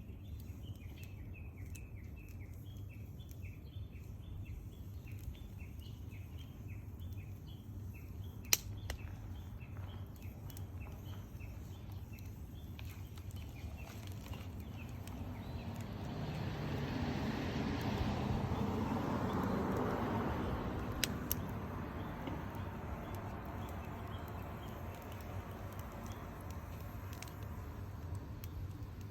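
Outdoor garden bonfire ambience: a couple of sharp pops from the burning wood over a steady low hum, with a rapid series of small chirps through the first third. A rushing noise swells up about halfway through and fades again a few seconds later.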